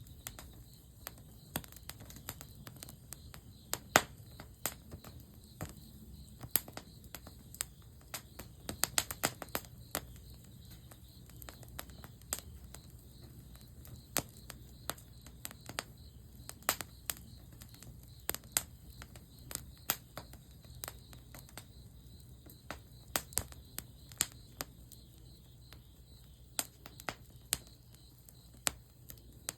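Campfire burning, its wood crackling and popping in irregular sharp snaps, with one loud pop about four seconds in and a quick run of snaps around nine seconds.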